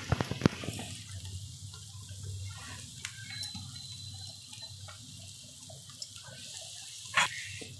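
Vegetable-chop filling of peas, cabbage and mashed potato sizzling gently in oil in a kadai over the gas, with a few clicks near the start and another near the end.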